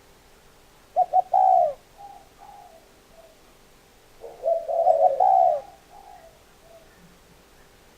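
Spotted dove cooing: two loud phrases of coos about three seconds apart, one about a second in and one past the middle, each followed by a few softer notes.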